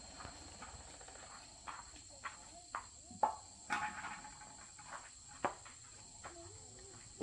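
A series of scattered light clicks and knocks at uneven intervals, a few with a brief ringing tail, loudest about three seconds in.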